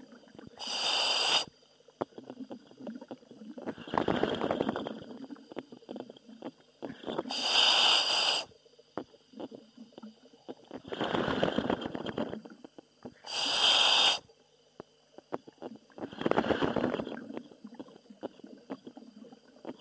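A diver breathing in a commercial diving helmet: a short hissing inhale through the demand valve alternates with a longer crackling exhale, one breath about every six seconds.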